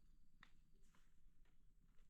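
Near silence, with a few faint short clicks or taps.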